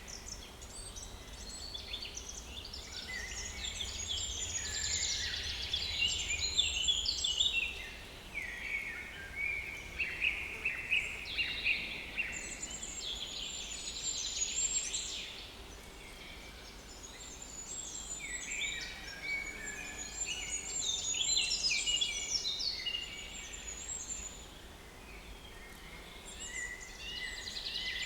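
Several small woodland songbirds singing over one another in a springtime dawn-to-morning chorus. Their phrases are a few seconds long, with fast high twitters and trills that swell and ease in turn.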